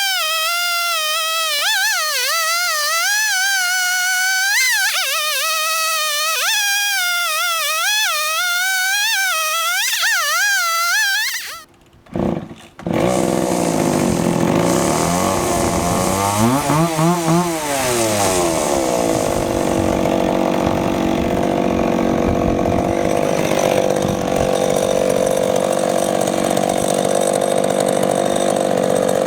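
Background music with a single wavering, sliding melody, which breaks off about twelve seconds in. A chainsaw then runs steadily at high speed, its engine note dipping and rising again a few seconds later, as it cuts the maple into boards on the mill.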